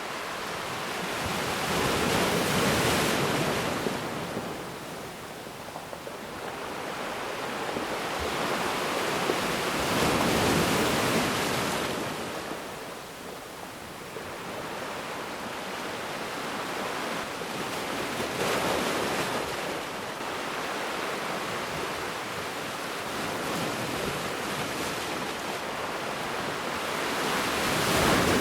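Ocean waves washing onto a shore, each surge swelling and fading again, about four times.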